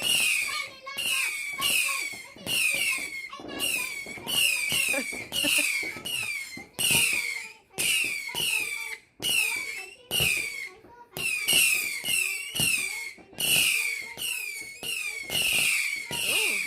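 Multi-shot firework cake (the finale, sold as a 100-shot) firing shot after shot, a little over one a second. Each shot carries a high whistle that falls in pitch.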